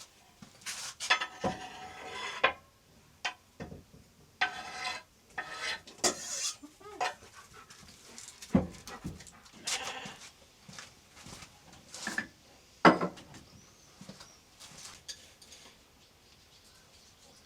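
Farm animals calling, several separate calls a second or less long, with a couple of sharp knocks in between.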